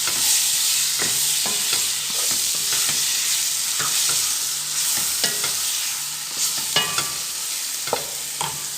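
Chicken pieces sizzling in hot oil and spices in a pan as they are sautéed. A spatula scrapes and clicks against the pan about once a second, with a quick run of sharper ticks about two-thirds of the way through.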